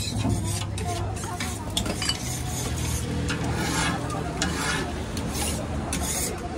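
Steady sizzle of food frying, with scraping and clinking of a steel ladle against a steel pot and plates as dosas are served.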